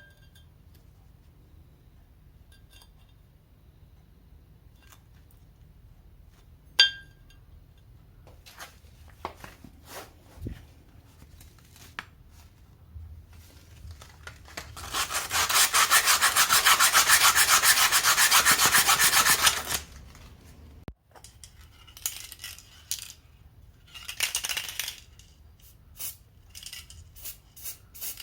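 Hand tools on metal car parts: a couple of sharp ringing metal clinks and scattered light knocks, then about five seconds of loud, fast rasping strokes in the middle.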